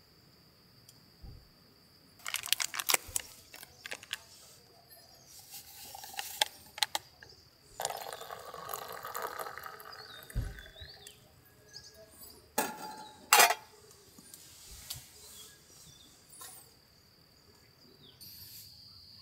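Crickets chirping in a steady high trill, overlaid by handling noise: runs of sharp clicks and clinks, a few seconds of rushing noise near the middle, and two louder knocks a little later.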